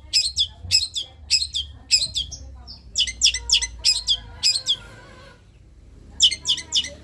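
Rapid, harsh sparrow chirping in the 'greja tarung' (fighting sparrows) pattern, the phrase taught to long-tailed shrikes. Quick runs of sharp, high chirps, about three a second, break off briefly about two seconds in and again around five to six seconds, over a low hum.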